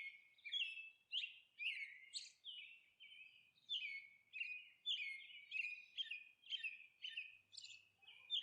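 Faint birdsong: a string of short high chirps, about two a second, each note dropping in pitch, with a brief lull about three seconds in.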